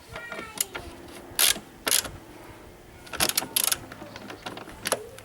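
Ratchet wrench clicking in several short strokes, the loudest about a second and a half and two seconds in and a quick group about three seconds in, as screws on a battery tray are tightened hand-tight.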